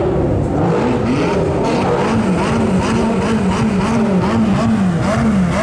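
Sports car engine revved in quick repeated throttle blips, about two a second, its pitch rising and falling each time.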